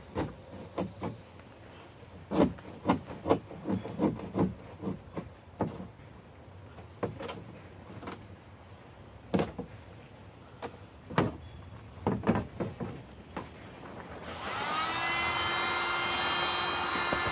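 A homemade putty knife scraping old caulk out of plastic barrel seams in short, irregular strokes. Near the end an electric heat gun's blower switches on and runs with a steady hum.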